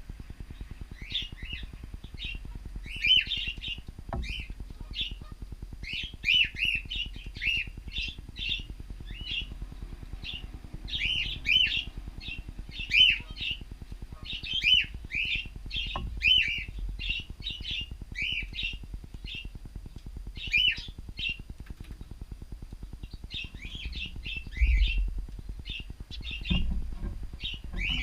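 Cockatiels chirping: a steady stream of short, repeated calls with brief pauses, and a couple of sharp clicks among them.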